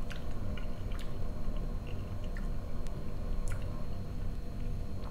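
A person chewing fried potatoes and mushrooms close to the microphone, with small wet clicks and squelching mouth sounds.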